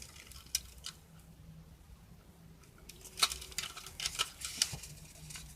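Plastic toy gun and holster being handled: scattered light clicks and taps, one about half a second in and a cluster of them a few seconds in, over a faint steady low hum.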